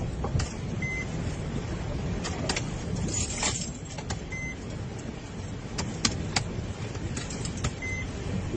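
Low rumble of a vehicle, with scattered sharp clicks and a short high beep that sounds three times, about three and a half seconds apart.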